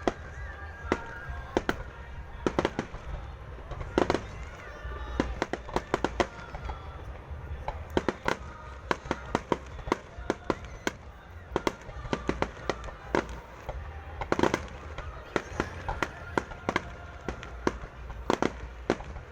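Fireworks display: shells bursting in a rapid, irregular string of bangs, several a second at times, with a few louder booms among them.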